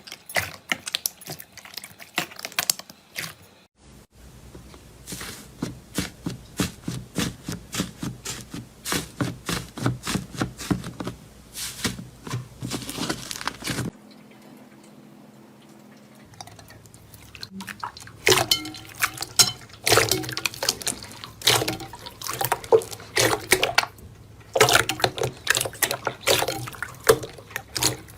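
Slime being squeezed and worked by hand, giving wet, sticky clicks and pops. A fairly even run of about four or five pops a second gives way to a short lull, then louder, irregular bursts of popping.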